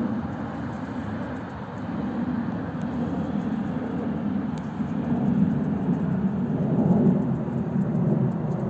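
Jet rumble from a Boeing 737-800's CFM56-7B turbofans at climb power, a low, steady, roaring noise without a clear tone that swells slightly in the second half.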